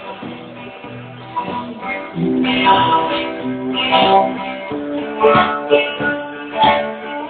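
Background music: a guitar plucking a melody of separate notes.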